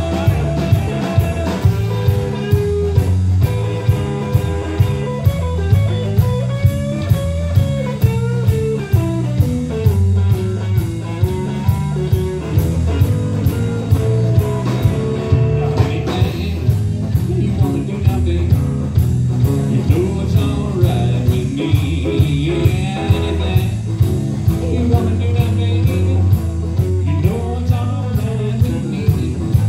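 Live band playing a blues song: a guitar lead with bending notes over bass and a steady drum beat of about two hits a second.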